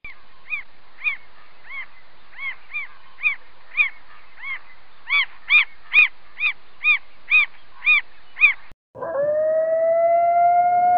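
Meerkat giving a steady series of short, high chirping calls, about two a second, louder from about five seconds in. It breaks off, and about nine seconds in a grey wolf begins one long howl that rises slightly in pitch and holds.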